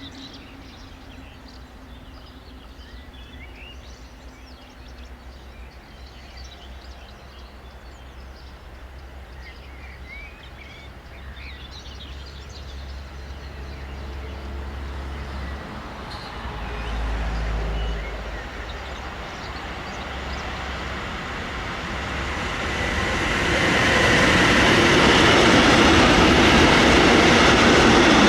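A train approaching on the line. A faint low rumble grows over some twenty seconds into loud wheel-and-rail noise as it arrives alongside, near the end. Birds chirp faintly in the first half.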